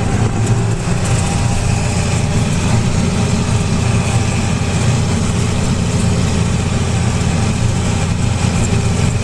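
Tractor engine running at a steady speed, heard from inside the cab of the moving tractor.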